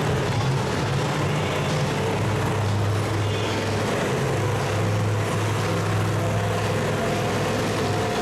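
Vehicle engine running steadily with a continuous low drone and no revving.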